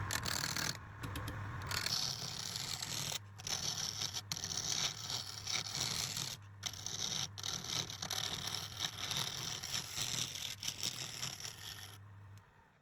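Wood lathe running with a steady motor hum while a turning tool scrapes the spinning workpiece with a hissing scrape. The sound breaks off briefly a few times and fades out near the end.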